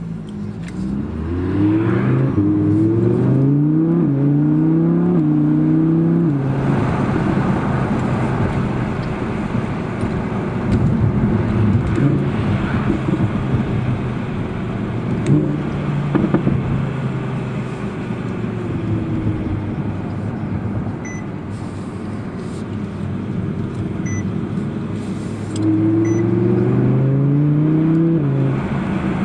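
Audi R8 V10 Plus's V10 engine accelerating hard through several quick upshifts, its pitch climbing and dropping back with each gear change. It then runs steadily with tyre and road noise, and a second burst of acceleration through the gears comes near the end.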